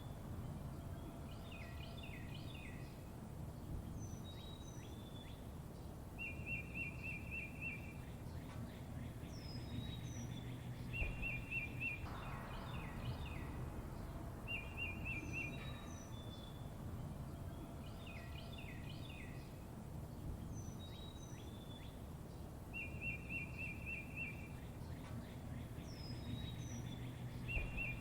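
Songbirds chirping and trilling, with rapid pulsed trills, short high falling whistles and quick chirps, over a steady low rumble. The same sequence of calls repeats about every 14 seconds, as a looped recording does.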